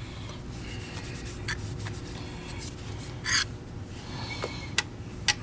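A plastic vacuum switch cover being cleaned with Windex: rubbing of a cloth on plastic, a short spray-bottle spritz about three seconds in, and a few light clicks.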